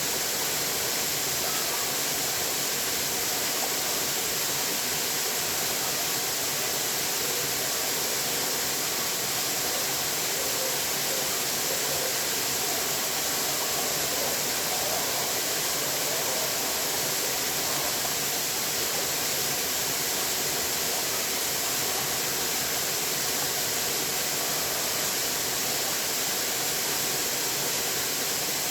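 Running water making a steady, unbroken rushing noise.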